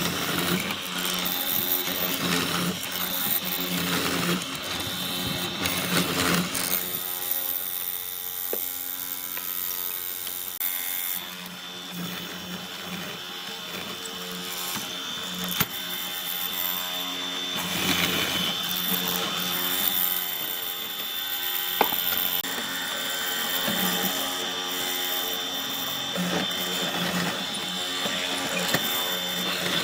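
An electric power tool running on wood, with its steady motor whine rising and falling in intensity as it is worked.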